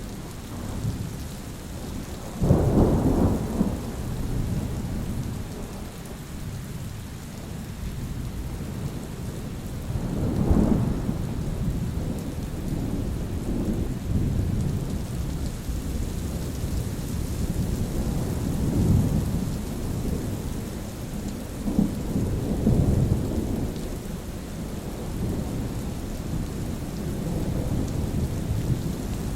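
Thunderstorm: steady rain with rolling thunder. A sudden loud clap of thunder comes about two and a half seconds in, another rumble about ten seconds in, and softer rolls later.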